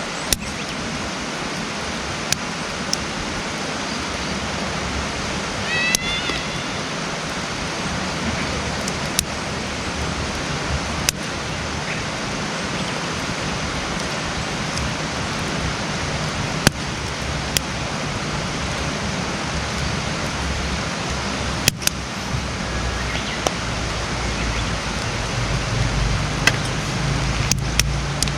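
Wood campfire burning, a steady hiss broken by sharp single pops and crackles every few seconds.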